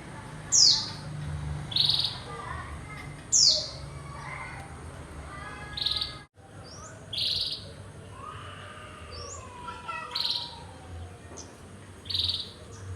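Small birds chirping: short, high chirps repeated every second or two, some sliding sharply down in pitch, over a low steady hum. The sound breaks off for an instant about six seconds in.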